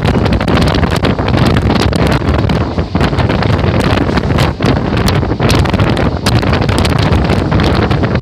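Wind buffeting the microphone held at the open side of a moving electric local train, loud and continuous, over the rumble and clatter of the train running on the rails, with irregular sharp clicks throughout.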